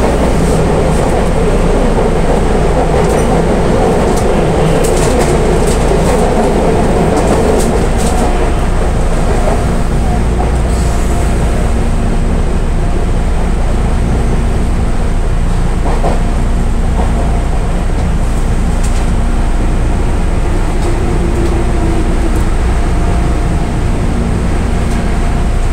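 Meitetsu electric train running, heard from inside the driver's cab: a steady rumble with scattered clicks of the wheels over the track in the first several seconds. The rumble eases after about eight seconds as the train slows to stop at a station.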